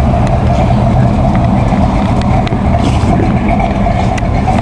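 1986 Ford Mustang GT's 5.0-litre V8 idling steadily and loud.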